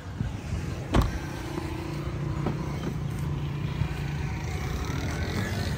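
A low, steady vehicle engine hum, with a single sharp knock about a second in and a fainter click about halfway through.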